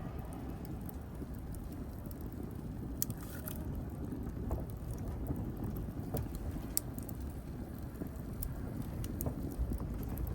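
Wood fire burning: a steady low rumble of flame with irregular sharp crackles and pops, a few louder snaps scattered through.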